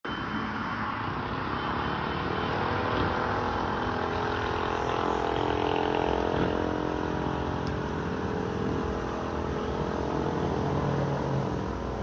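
A running vehicle's engine with steady road or running noise, its several held tones drifting slightly in pitch.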